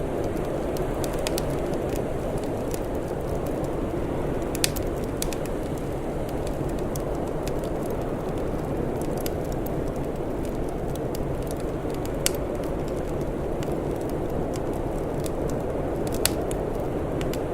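Open fire crackling with scattered small ticks and three louder pops, over a steady low rumbling noise.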